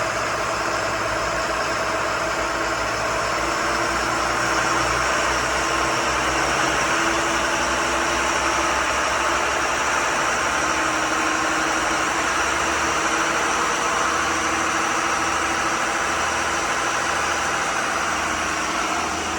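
Bayliner 4788 motor yacht's twin diesel engines running steadily.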